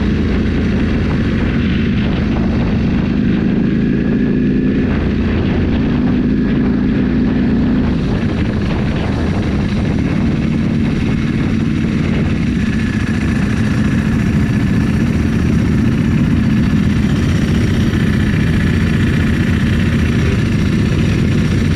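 Motorcycle engine running steadily under way, with wind and road noise; the engine note shifts about eight seconds in.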